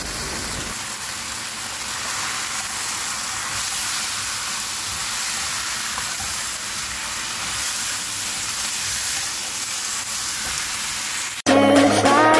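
Raw chicken pieces sizzling in a hot wok, a steady hiss of frying as the meat starts to brown. About eleven seconds in, music cuts in suddenly and louder.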